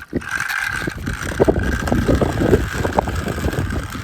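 Toy tractor's small motor running: a steady high whine over a rough rumble, with scattered clicks and clatter.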